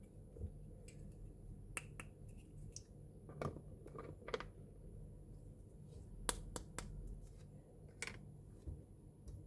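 Small plastic miniature toy pieces clicking and tapping as they are handled, about a dozen sharp clicks at irregular intervals over a faint low hum.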